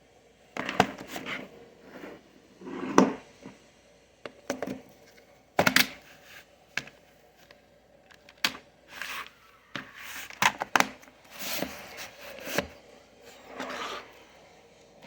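Handling noise of plastic DVD cases being moved and set down: irregular clicks, knocks and rustling, a dozen or so spread unevenly.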